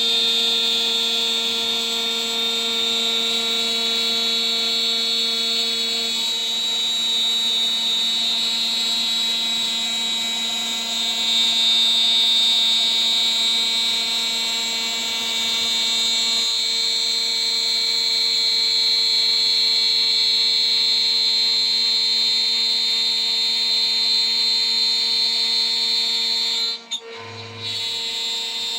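CNC router spindle running at about 14000 RPM with a small three-flute end mill cutting, a steady high whine over the hum of the spindle. Near the end the sound briefly drops out with a low thump, then resumes.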